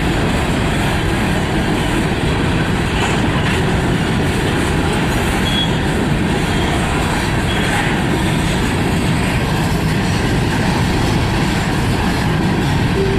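Freight train rolling past: a steady rumble and clatter of wheels over the rails, with a couple of brief, faint wheel squeals midway.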